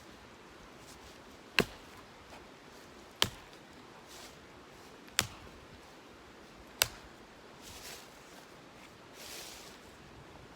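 Firewood being chopped or split: four sharp strikes, one every couple of seconds.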